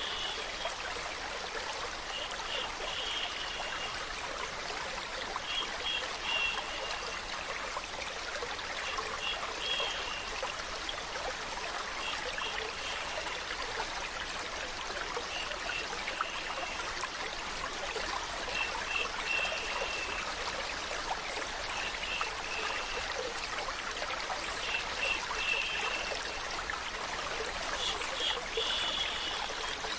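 Water flowing steadily in a stream with a trickling, even rush. Short high chirps come back roughly every three seconds.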